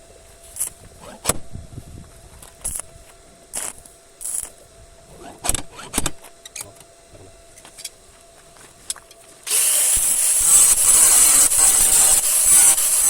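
Scattered clicks and knocks of tools and parts being handled. About nine and a half seconds in, a loud, steady hiss of compressed air starts suddenly.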